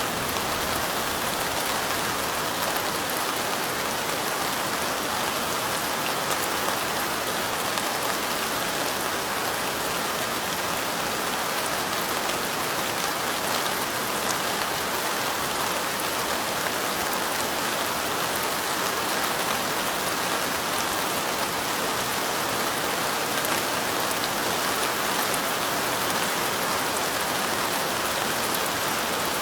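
Steady light rain falling: an even hiss of many small raindrops that holds without a break.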